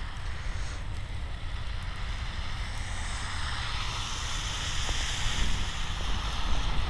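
Wind buffeting the microphone with a steady low rumble, while a vehicle passes on the snowy road, its tyre hiss swelling in the middle and fading near the end.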